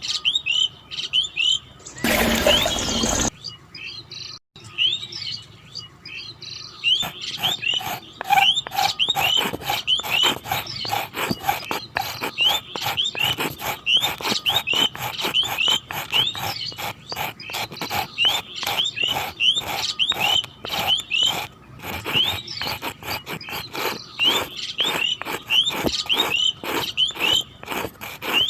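Small birds chirping, short high calls repeated a few times a second, over a fast, busy clicking and rattling. A brief loud noise cuts in about two seconds in.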